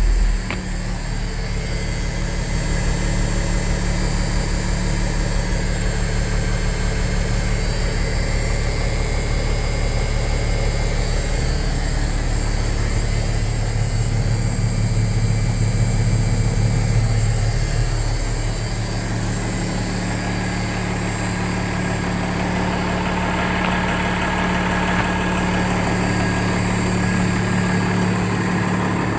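Cummins QSB 8.3-litre inline-six diesel engine idling steadily. Its note changes about eighteen seconds in, with the deepest rumble dropping away and a higher hum and hiss coming up.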